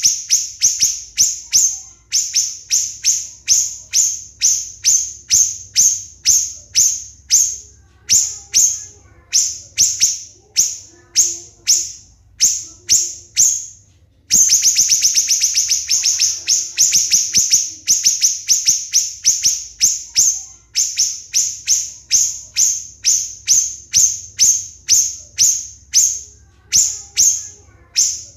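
Siri-siri bird calling: a steady series of loud, sharp, high notes, about two or three a second, with a fast rattling run of close-set notes about halfway through.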